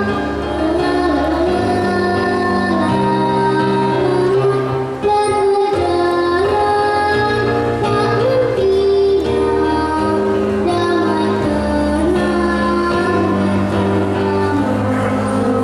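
A young girl singing an Indonesian children's song over an arranged accompaniment of sustained chords and bass. Her held notes waver slowly.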